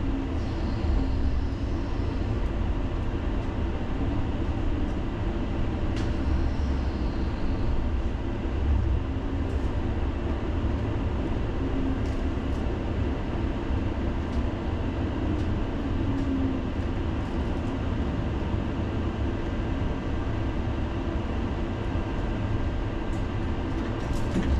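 Tram running on its rails, heard from inside the car: a steady low rumble of wheels and running gear, with a few faint clicks.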